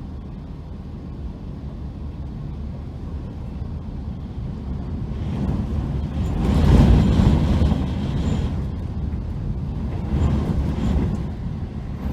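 Typhoon wind gusting hard against the microphone: a deep buffeting rumble that builds to its strongest gust about six to seven seconds in, eases, and surges again near the end.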